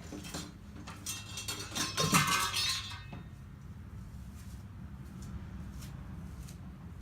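Metal tools clinking and rattling against each other for about two seconds, with a brief ringing, over a steady low hum.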